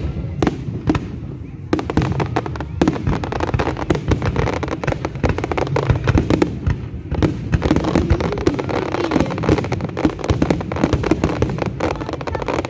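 Fireworks display: a rapid, dense run of shell bursts and crackling, with faint music underneath.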